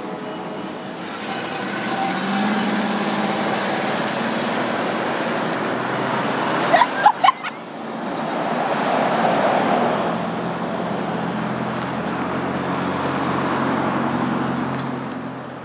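Steady rumble of a long empty freight train rolling past, with low engine tones, a quick cluster of three sharp knocks about seven seconds in, and a fade near the end.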